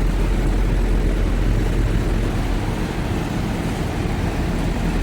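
Steady low rumble of a semi-truck running, engine and road noise with no sudden events.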